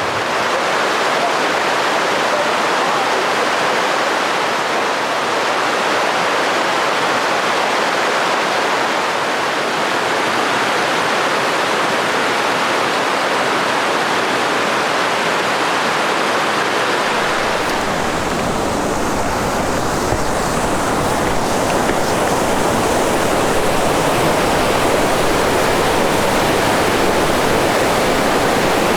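Steady rush of running water from a mountain stream. About seventeen seconds in, a deeper rumble joins it.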